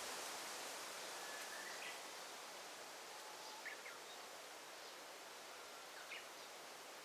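Quiet daytime forest ambience: a soft, steady rustling hiss with a few short, faint bird chirps about two, four and six seconds in.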